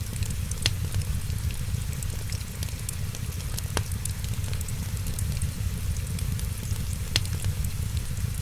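Wood fire crackling: a steady low rumble with frequent small crackles and three louder sharp pops.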